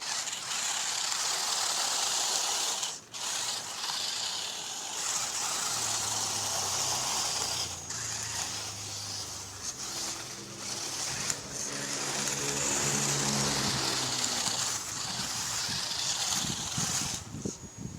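Small brushed electric motor and gearbox of an RC rock crawler running with a gritty whir, stopping briefly a couple of times. Midway a lower hum comes in and steps up and down in pitch as the throttle changes.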